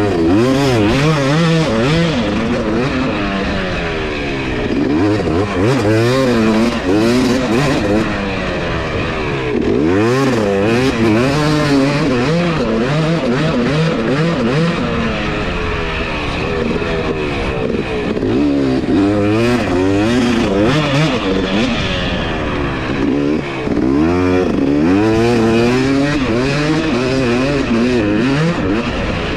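Two-stroke 250 dirt bike engine being ridden hard, its pitch rising and falling again and again as the throttle is opened and shut and the gears change, with brief dips where the throttle closes.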